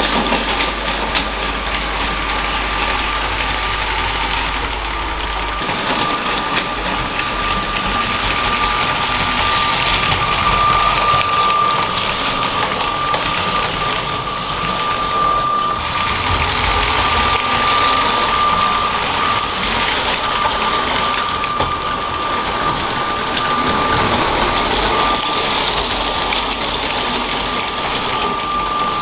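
LEGO train's small electric motor running with a steady high whine, over the continuous rattle and clicking of plastic wheels on LEGO track.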